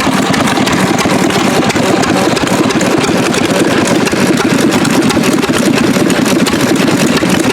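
Antique Witte stationary gas engine running, chugging steadily with a slight skip to its firing.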